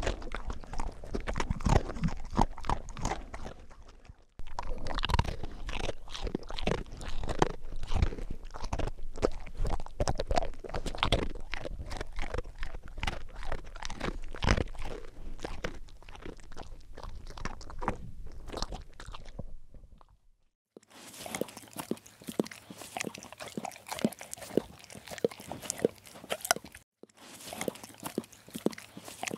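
Labrador puppy chewing, with crunching bites in dense irregular clicks. The sound breaks off abruptly a few times, and in the later part a faint low hum runs beneath the chewing.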